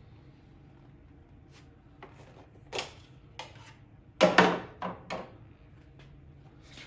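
Handling clatter of small parts and tools being picked up: a few separate knocks, then a louder cluster of clattering knocks with a brief ring about four seconds in.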